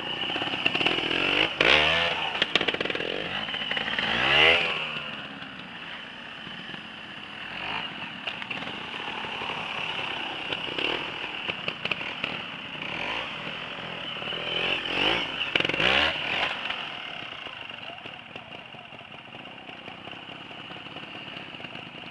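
Trials motorcycle engines running, revved up and down in sharp blips with quieter running between. The loudest revs come about two and four seconds in and again around fifteen seconds.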